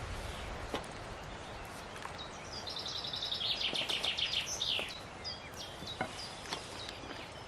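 A songbird sings one fast trill of high notes that steps down in pitch and ends in a short flourish, lasting about two seconds, over a steady outdoor background with a few faint knocks.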